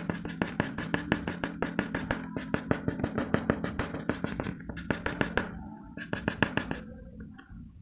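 Pencil scratching on paper in quick back-and-forth hatching strokes, about seven a second. The strokes break off briefly about five and a half seconds in, resume, and stop near the end.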